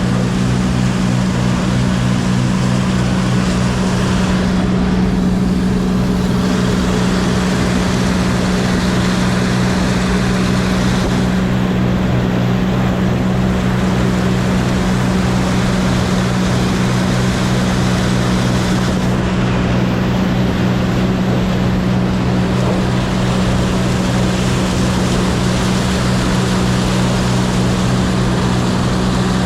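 Combine harvester's diesel engine running steadily at working speed, a constant loud low drone.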